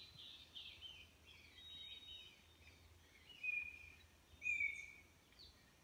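Wild birds calling, fairly faint: a run of short falling chirps at the start, then two clear, slightly falling whistled notes about three and a half and four and a half seconds in, the loudest of the calls.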